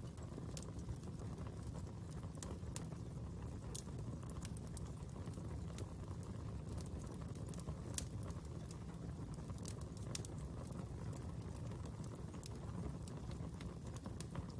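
Fire crackling: irregular sharp pops and snaps over a steady low rumble, with one louder pop about halfway through.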